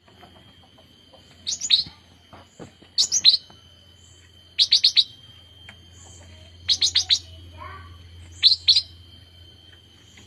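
A young cucak rante bird, a fledgling just learning to sing, giving five short bouts of two to four quick, high chirps a second or two apart.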